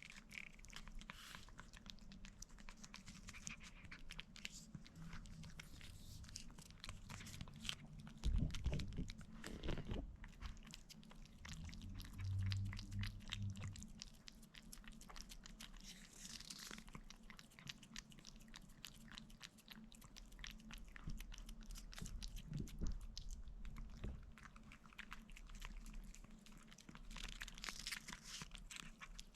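Cats licking and eating a Delectables Squeeze Up puree treat: a steady run of small smacking clicks, with a few louder bumps about eight to ten seconds in.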